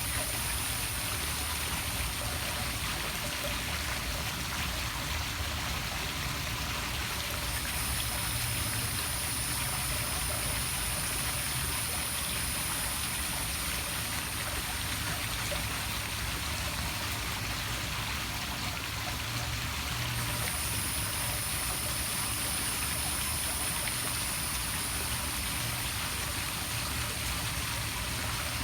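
Poolside waterfall splashing steadily into a swimming pool.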